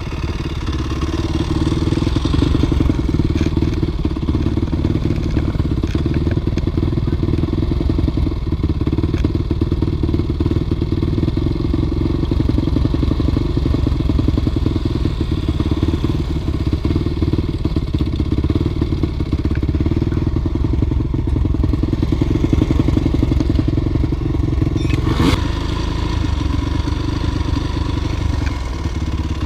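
Dirt bike engine running steadily under load, with one sharp knock near the end.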